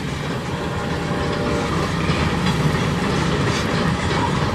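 Freight train cars rolling past: a steady rumble of steel wheels on the rails with some clicking over the rail joints.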